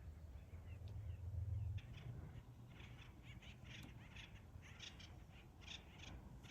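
Birds calling outdoors, a quick irregular run of short, high squawking calls several times a second, after a low rumble that cuts off about two seconds in.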